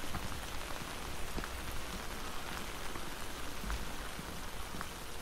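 Steady rain falling on an umbrella overhead, an even hiss with scattered sharp ticks of single drops.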